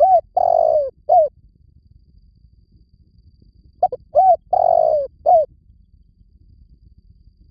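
Spotted dove cooing: two calls about four seconds apart, each a couple of short coos, one longer drawn-out coo that falls slightly in pitch, then a final short coo.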